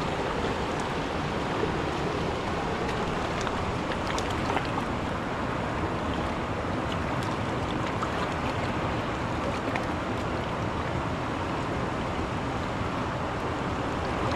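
Mountain river rushing over its bed: a steady wash of water noise, with a few faint ticks over it.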